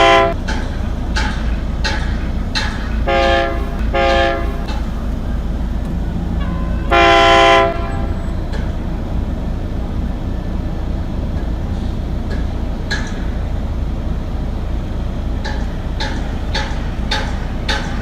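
A train horn at a level crossing, sounding as a warning to vehicles crossing against the barrier: a blast ending just after the start, two short toots about three seconds in, and a longer blast about seven seconds in. Under it the train rumbles past with a regular clack of wheels over rail joints, coming faster near the end.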